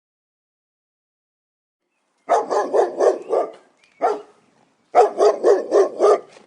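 Dog barking in two quick runs of about five or six barks a second, with a single bark between them, after a couple of seconds of silence.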